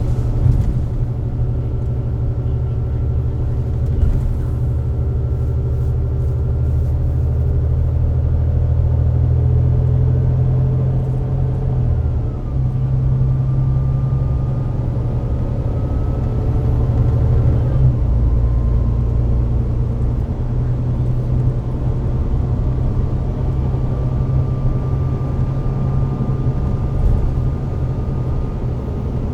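Volvo D9B-310 diesel engine and Voith DIWA864.5 automatic gearbox of a Volvo B9TL double-decker bus running under way, a deep steady rumble with a faint whine above it. The note shifts about twelve seconds in and again about eighteen seconds in.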